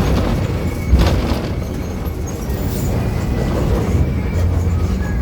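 VW 17-230 OD bus engine running under way, heard from inside a Marcopolo Torino body as a steady low rumble. There is a single knock about a second in.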